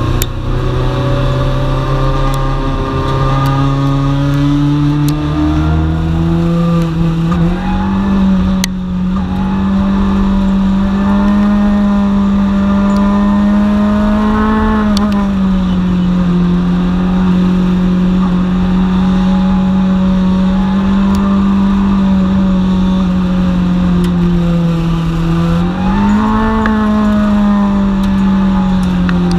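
Dwarf race car's motorcycle engine heard from on board under racing load: the revs climb over the first several seconds, then hold high and steady, easing off briefly twice and picking back up.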